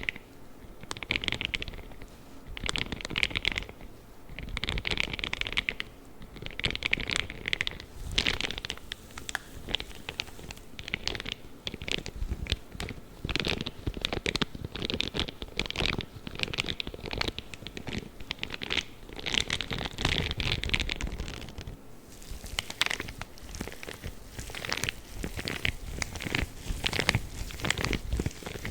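Spiky gloves scratching and rubbing in repeated strokes, about one every second or two, with crackly clicks between them that come faster near the end.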